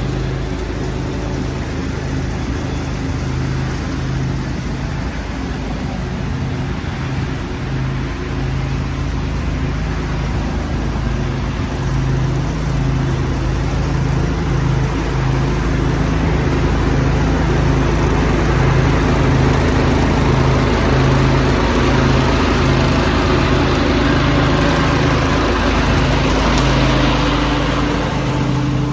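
Lawn tractor engine running steadily under load with the rushing air of a leaf vacuum, growing slightly louder in the second half.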